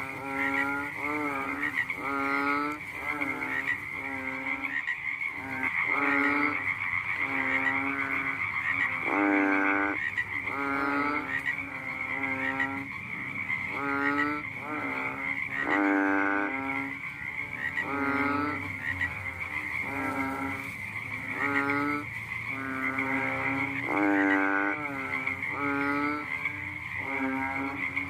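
A frog calling at night: short, low croaks repeated about once a second, some louder than others, over a steady high-pitched drone.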